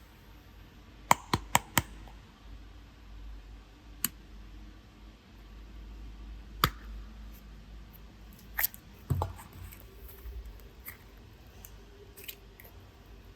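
Small objects being handled on a tabletop during clay and slime play: a quick run of four sharp clicks, then single clicks every few seconds, a heavier low knock about nine seconds in, and a few faint ticks.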